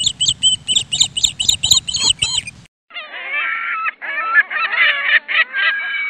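Bird calls in two parts: first a rapid series of high-pitched chirping notes, about five a second, for some two and a half seconds; then, after a brief gap, lower calls with several voices overlapping.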